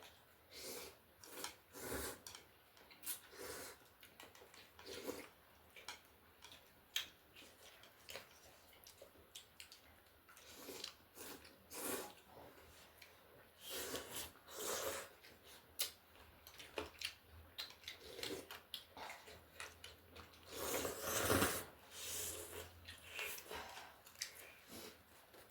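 Eating sounds close to the microphone: irregular chewing and mouth noises with small clicks, and a longer noisy stretch a little past the 20-second mark, as chicken thukpa noodle soup and chicken wings are eaten.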